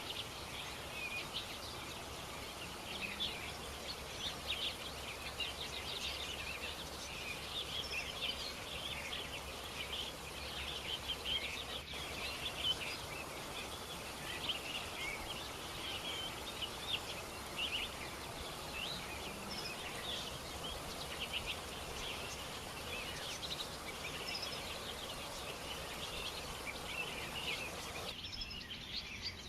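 A chorus of many small birds chirping continuously, overlapping short calls, over a steady outdoor hiss.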